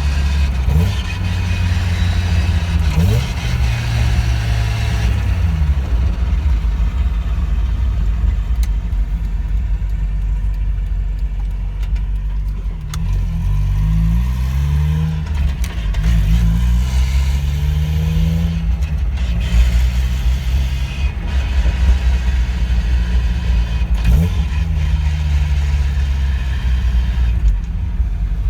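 Mazda NA Miata's inline-four engine and drivetrain under way, the engine note climbing and dropping back several times as the car accelerates through the gears. It carries the drivetrain noise that started after a differential change and that a replacement transmission did not cure.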